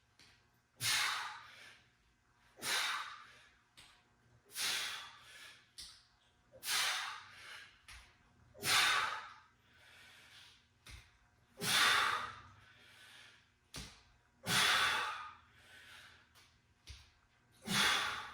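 A man breathing hard from exertion, with a loud, forceful breath every two to three seconds and softer breaths between.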